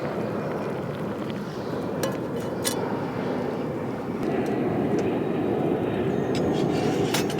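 Wood campfire burning with a steady rush of flame and scattered sharp crackles and pops from the burning wood; the burning grows a little louder about halfway through.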